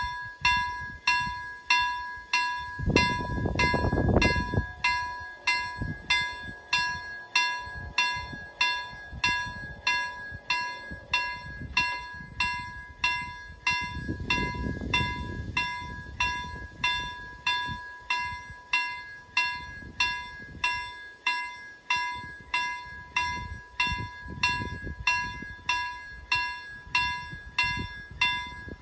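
Swedish railroad crossing warning bells ringing, about two strikes a second, signalling that the crossing is active for an approaching train. A low rumble swells under the bells about three seconds in and again midway.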